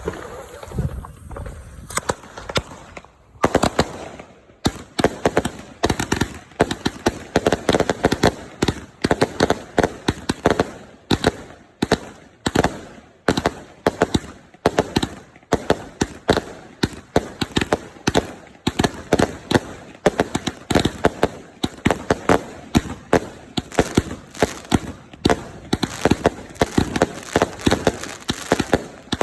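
Two 100-shot Superstars firework cakes firing together: after a short lull, a rapid string of loud shots starts about two seconds in, several a second.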